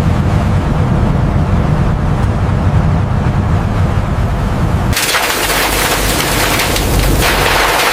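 A low, heavy rumble at sea that cuts off abruptly about five seconds in, giving way to a loud, bright hiss of rushing, splashing water.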